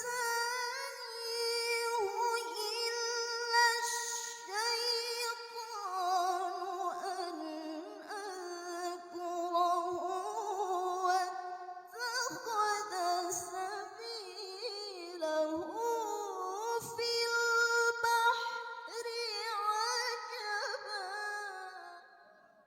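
A woman reciting the Qur'an in melodic tilawah style, drawing out long, ornamented notes with a wavering vibrato, with no accompaniment. Her voice fades out near the end.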